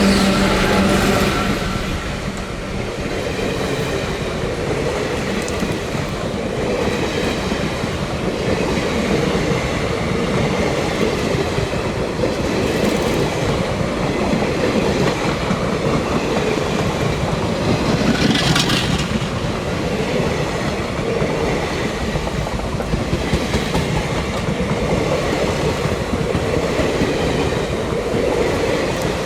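A train passing close by, its wheels clattering steadily over the rail joints, with one brief sharper screech about eighteen seconds in.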